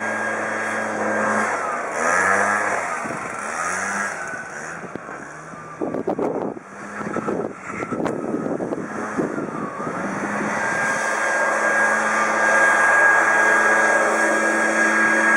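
Kawasaki backpack leaf blower's small engine running, its pitch rising and falling several times as the throttle is worked, with a stretch of rough noise about six to eight seconds in, then held at a steady, higher speed.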